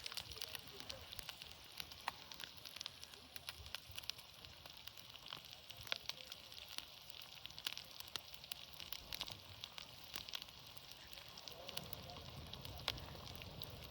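Eggs frying in lamb tail fat: a steady sizzle with frequent sharp crackles and pops.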